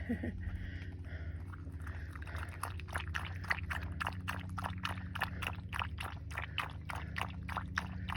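A dog lapping water in quick, even laps, about four a second, settling into a steady rhythm about two seconds in, over a low steady hum.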